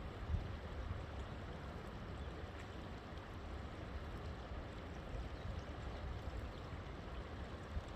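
River water flowing steadily, with a constant low rumble beneath the rushing.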